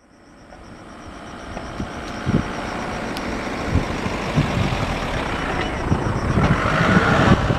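EMD WDG4 diesel freight locomotive's two-stroke V16 engine running as it approaches hauling a freight train, growing steadily louder, with scattered thumps.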